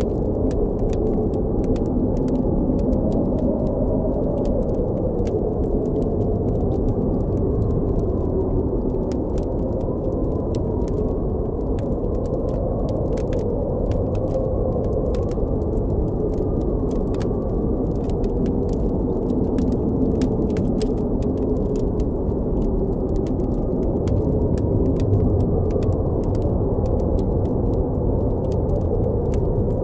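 Blizzard wind blowing steadily, with a deep rush and a faint whistle that wavers slowly in pitch, over a crackling campfire giving frequent small sharp pops.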